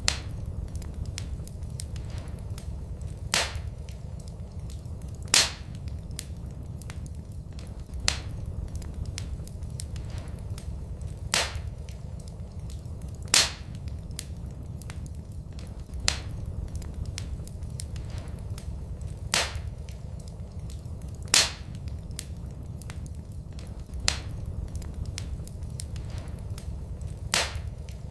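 Wood fire in a fireplace crackling over a steady low rumble, with sharp loud pops about every two to three seconds in a regular, repeating pattern.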